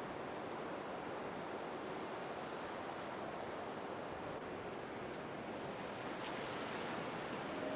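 Sea surf washing steadily.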